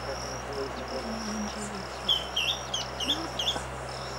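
A forest bird calling a quick series of about five short, upward-hooked notes a couple of seconds in. Under it runs a steady, high, pulsing insect trill.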